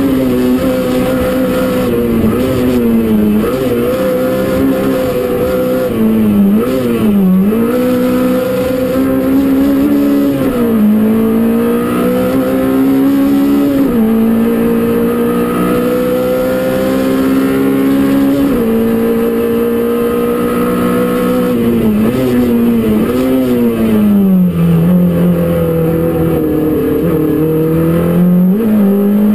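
Peugeot 205 Rallye Group A rally car's engine at high revs, heard from inside the cabin, driven hard uphill. The note holds high and dips briefly several times as the driver shifts or lifts for bends, then climbs again, running lower for a while in the last third.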